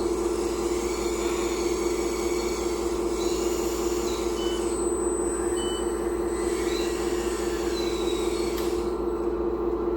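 Radio-controlled hydraulic excavator's pump running with a steady hum, with a few faint short high beeps a few seconds in.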